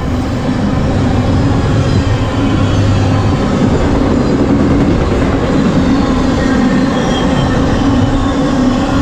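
CSX intermodal freight train passing at speed: a loud, steady rumble and rush of steel wheels on the rails that holds evenly throughout.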